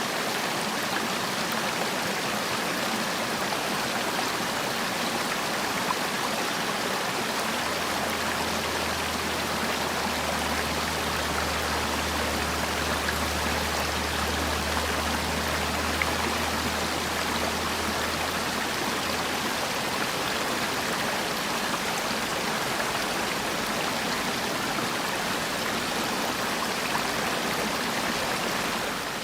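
Mountain valley stream rushing steadily over rocks. A low rumble joins in about eight seconds in and fades out about ten seconds later.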